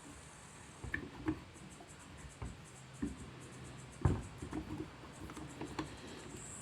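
Scattered small clicks and scrapes, with one louder knock about four seconds in, from a C-clamp being turned bit by bit to press a brake caliper piston into its bore.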